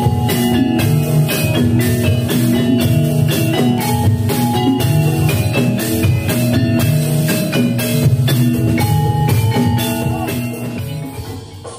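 Javanese gamelan playing a jathilan piece: saron metallophones struck in a fast, ringing melody over drums. The music gets quieter near the end.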